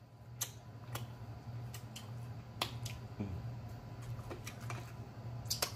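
Scattered sharp, wet mouth clicks and smacks of a man chewing rib meat and gristle off a bone, about one or two a second, over a steady low hum.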